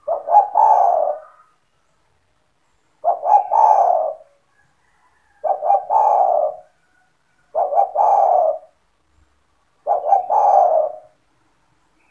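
Spotted dove (tekukur) cooing in song: five phrases about two seconds apart, each a few quick short notes running into a longer low coo.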